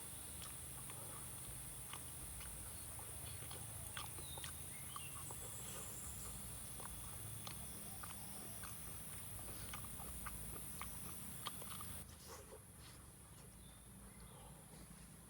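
Close-up eating sounds: chewing with many small scattered mouth clicks, over a steady high hiss. The background drops abruptly about twelve seconds in.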